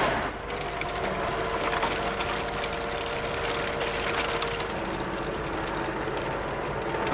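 Massey Ferguson 600 series tractor's diesel engine running steadily at a constant pitch, holding its revs with the power take-off driven at constant speed.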